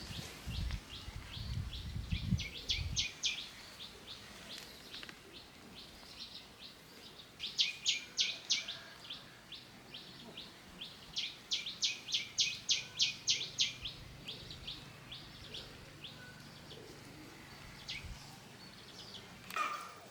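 A bird chirping in rapid runs of sharp, high notes, several a second, in three or four spells. Low thumps and rustling sound in the first few seconds.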